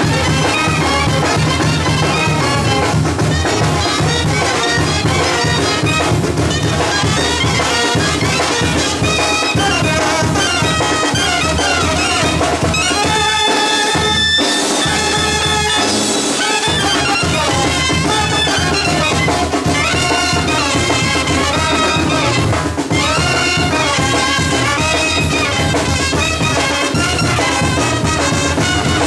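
Mexican banda music: a brass band with trumpets and trombones playing over a steady beat, with long held brass chords about halfway through.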